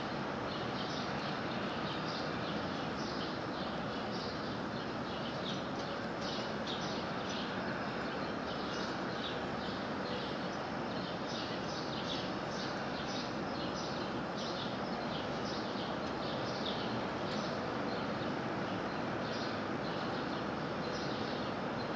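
Small backyard birds chirping: short high notes repeated about twice a second over a steady background hiss.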